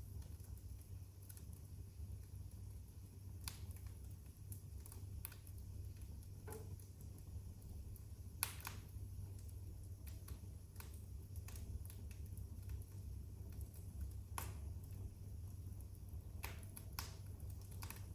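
Wood fire in a fireplace crackling: irregular sharp pops and snaps, a louder snap about halfway through, over a low steady hum.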